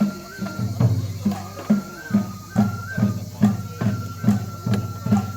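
Japanese festival hayashi music for a lion dance: a drum struck at a steady beat a little over twice a second, under a high held melody line that steps between a few pitches.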